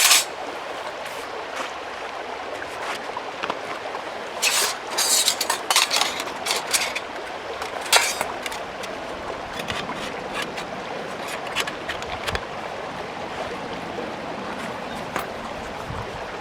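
Steady rush of running stream water, with scattered clicks and a stretch of louder rustling and handling noise from about four to eight seconds in.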